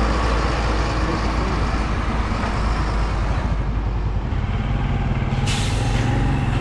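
Motor vehicle engine and road noise, a loud steady rumble; an engine hum comes up about four seconds in, and a short hiss follows about a second later.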